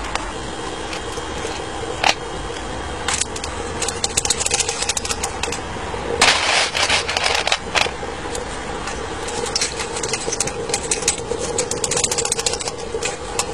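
Steady hum of an electric fan drawing the fire in a small steam locomotive's firebox, under irregular metallic clicks and clatters that bunch together about six seconds in.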